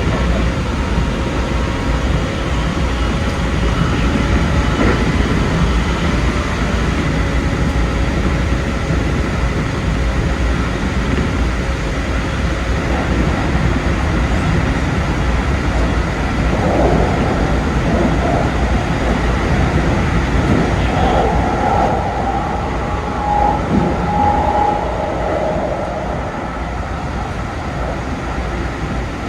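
Keikyu 2100 series electric train running at speed, heard from the cab: a steady running noise with a faint whine, and a few brief squealing tones about two-thirds of the way through.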